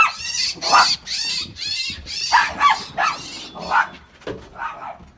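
A bird calling over and over in short squawks, about two or three a second, growing fainter toward the end.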